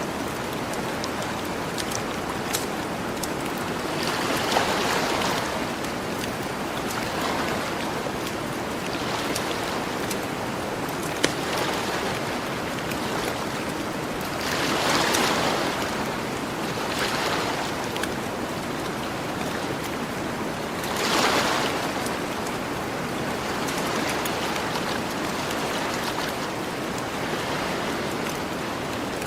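Gentle ocean waves washing onto the shore over a steady hiss, swelling and fading several times, with occasional sharp pops and crackles from a campfire.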